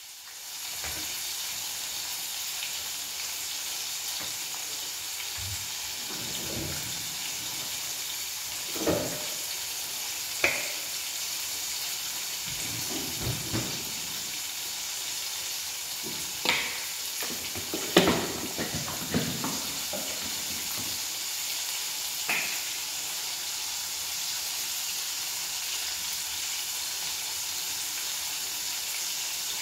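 Food frying in hot oil in a pan, a steady sizzle. A few short sharp clinks or pops stand out over it now and then, the loudest just past the middle.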